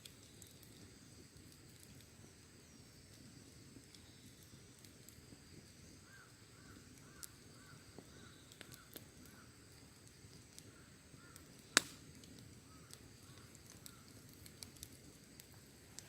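Wood campfire crackling faintly with scattered small pops and one loud sharp pop a little before three quarters of the way through. A steady high-pitched insect trill runs underneath, and a quick run of short repeated calls comes through in the middle.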